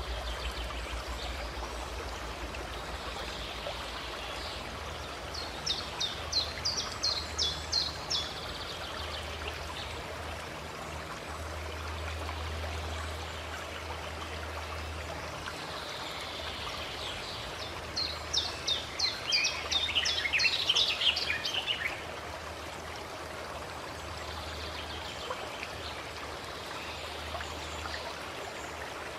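Steady rush of a flowing stream. A bird sings twice over it, each time a quick series of high notes lasting two to four seconds.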